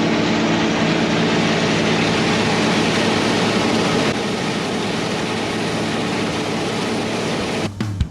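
Combine harvester running steadily in a wheat field: a constant engine drone under a broad rushing noise. The sound breaks off near the end.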